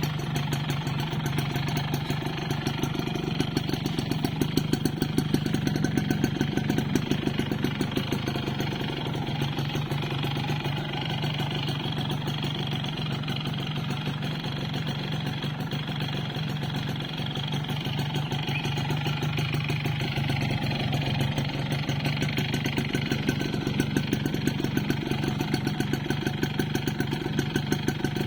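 Yamaha Force 1 (F1ZR) single-cylinder two-stroke engine idling steadily with a rapid, even knocking clatter, which the owner takes for piston slap.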